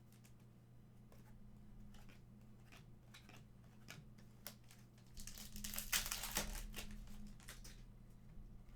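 Crinkling and tearing of a trading-card pack wrapper being opened, loudest between about five and seven and a half seconds in, with light clicks of cards being handled.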